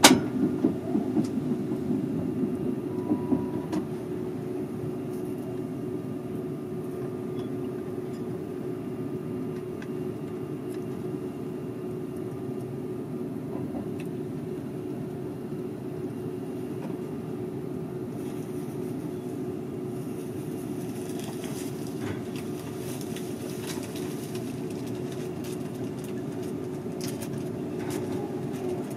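Seibu 001 series Laview electric train running at speed, heard from inside the front car: a steady rumble of running noise with a constant low hum, and a few sharp clicks in the first few seconds.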